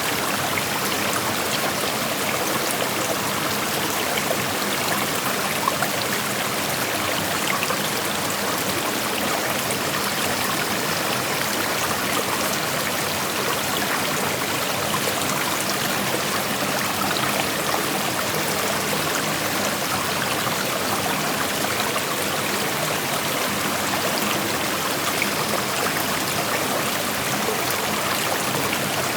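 Creek water flowing and rushing over rocks: a steady rushing with fine trickling and splashing.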